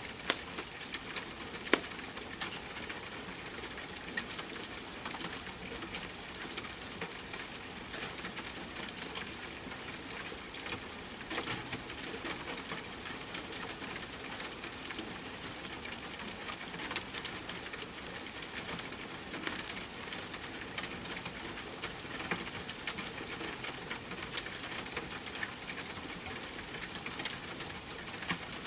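Steady rain hiss mixed with the crackle of a wood fire in a fireplace: a constant patter with frequent small snaps, and two sharper pops in the first two seconds.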